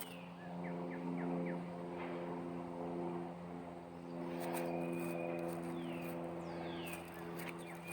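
Young chickens peeping in short, high, falling peeps scattered through, over a steady low hum.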